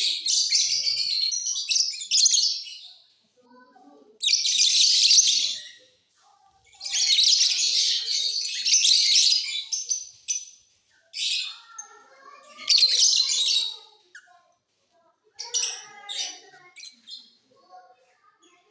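Lovebirds singing: rapid, high-pitched chattering in bouts of one to three seconds with short pauses between them.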